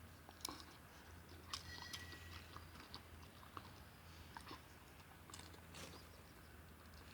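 Samoyed dog chewing food, faint irregular crunches and clicks of its teeth.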